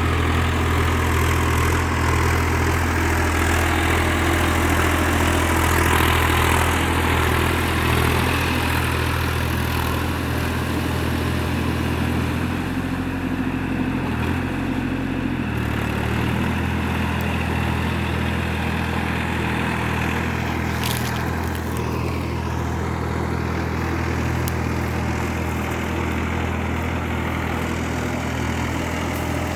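Massey Ferguson 7250 DI tractor's three-cylinder diesel engine running steadily, its note shifting briefly about halfway through.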